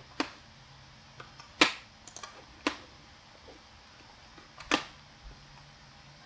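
Computer mouse clicking during CAD work: about half a dozen separate sharp clicks, with the loudest about a second and a half in and another strong one near the five-second mark.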